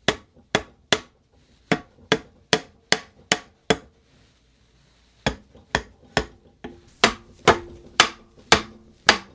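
Hammer blows on a wooden teak chair part, knocking a dowelled piece loose from the frame: two runs of about nine sharp knocks each, two to three a second, with a short pause in the middle.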